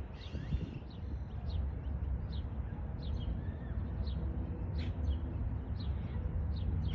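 A bird calling repeatedly with short, high, downward-slurred chirps, one or two a second, over a steady low rumble.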